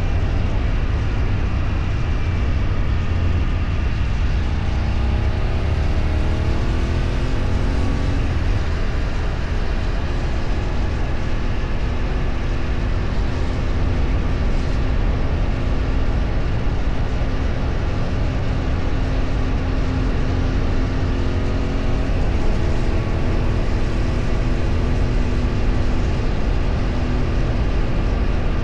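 Road vehicle driving under a heavy low rumble of wind and road noise. The engine note climbs in pitch while accelerating early on and again about two-thirds of the way in, holding steady in between.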